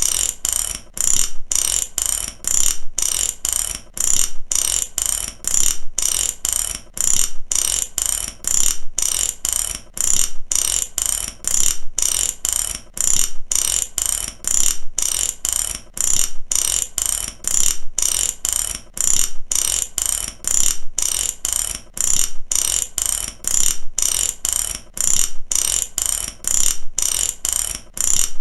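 Ratchet clicking over and over, its pawl snapping across the teeth in runs of sharp clicks that repeat in a steady rhythm.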